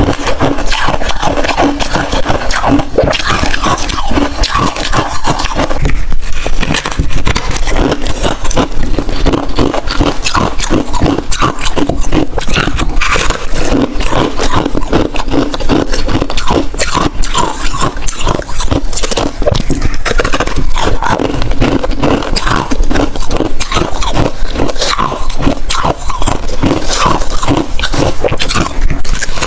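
Close-miked chewing of hard, thin freezer ice and frost: a dense, unbroken run of crisp crunches and cracks.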